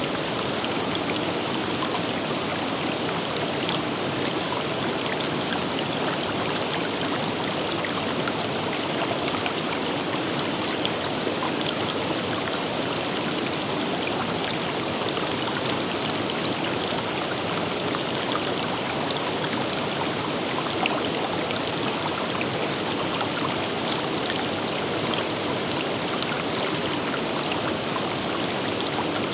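River water flowing over rocks: a steady rushing with many small splashes and drips.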